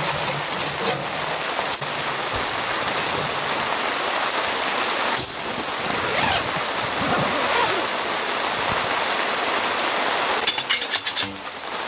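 Steady rain hissing, with a quick run of small clicks and knocks near the end.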